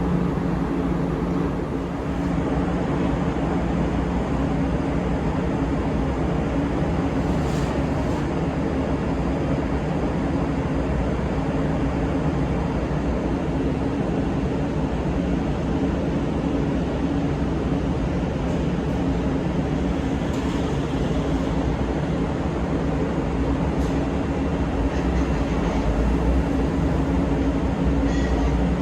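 Large car ferry's engines and onboard machinery running with a steady low drone and hum, with a few faint clicks over it.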